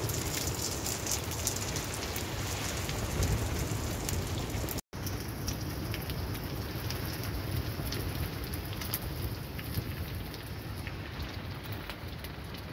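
Chicken and fried rice sizzling in a hot steel pan on a tent stove, a dense steady crackle. It drops out for an instant about five seconds in.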